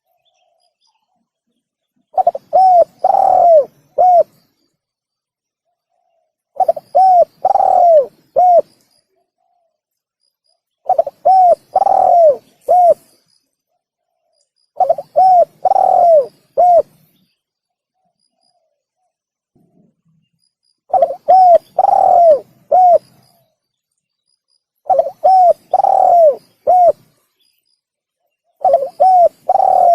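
Spotted dove (tekukur) cooing: seven phrases of about five coos each, one phrase every four to six seconds, each phrase with one longer, drawn-out coo near its middle.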